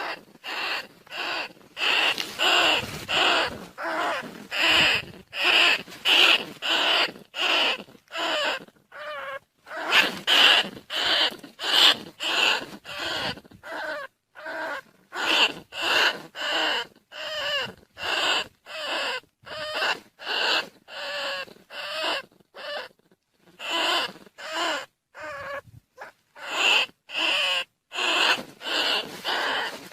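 Field rats squeaking, played as a trapping lure call: short squeaks about two a second, with a few short pauses.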